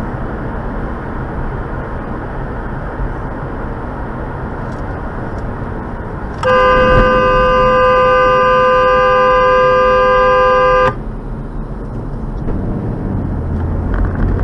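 A car horn sounding one steady blast of about four and a half seconds in the middle, over continuous road and traffic noise.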